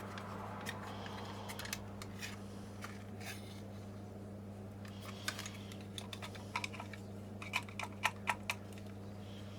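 Small sharp plastic clicks and taps from an LED camping light's plastic casing being handled and prodded, coming more often in the second half, over a steady low hum.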